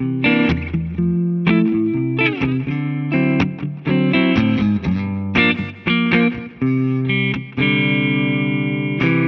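1989 Gibson ES-335 semi-hollow electric guitar playing jazzy chords in quick, short stabs, then a final chord held and left to ring out for the last couple of seconds.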